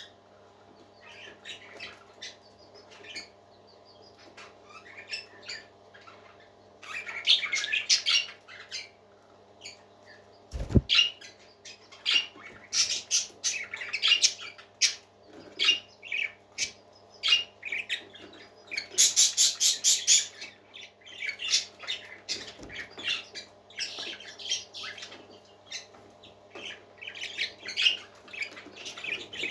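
Pet parakeets chirping and squawking in quick, irregular bursts, with dense clusters of chatter, the densest about twenty seconds in, and one low thump about ten seconds in.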